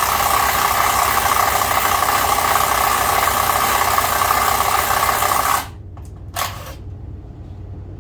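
Power drill running under load, boring into wood with a paddle bit to recess a washer; it stops abruptly about five and a half seconds in, then gives one short blip about a second later.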